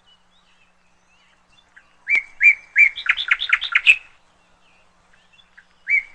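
A songbird singing a short phrase twice: three clear whistled notes, then a quick run of notes ending on a higher one, about two seconds long. The first phrase begins about two seconds in, and the second begins near the end.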